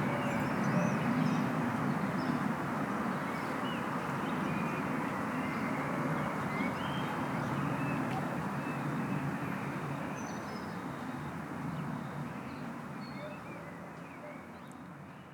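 Outdoor ambience: a steady low rumble with many short bird chirps scattered over it, fading out over the last few seconds.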